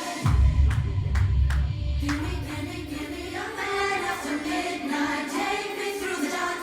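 Electronic club music from a DJ set: a deep bass drops in just after the start under a few sharp hits, then after about two seconds the bass falls away and a choir-like sung vocal carries the track.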